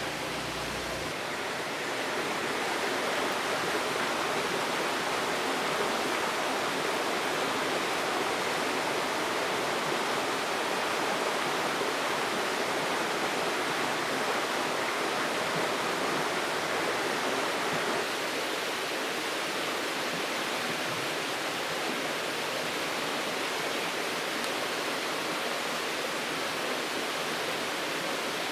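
Steady rush of flowing river water, which steps up in level about two seconds in.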